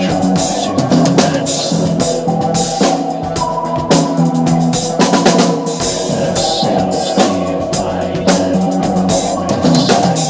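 Sonor drum kit with Paiste cymbals played along to the song's band recording: fast snare, rimshot and bass drum hits under cymbal wash, over the band's sustained chords with no singing.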